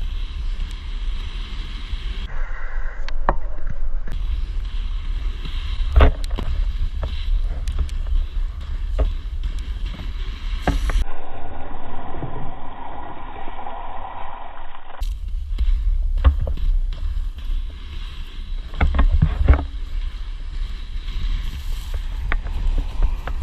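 Wind buffeting a GoPro microphone in a steady low rumble while inline skate wheels roll on pavement, with a few sharp knocks. About halfway through the sound turns duller for several seconds.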